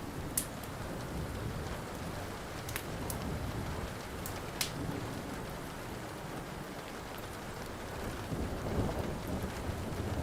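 Steady rain with a few sharp pops from a crackling wood fire, and a low rumble of thunder swelling near the end.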